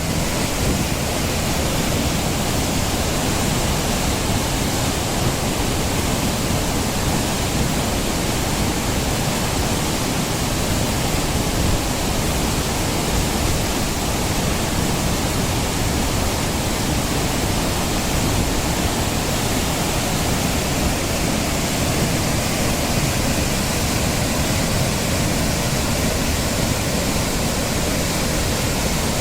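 Waterfall running in heavy flow after rain: a loud, steady, even rush of falling water.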